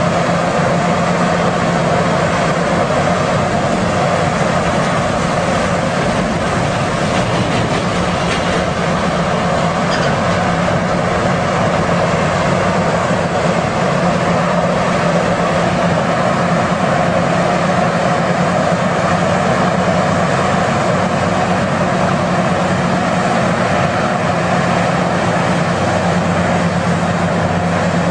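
Heavy machinery running steadily: a constant mechanical drone with a steady low hum and no breaks.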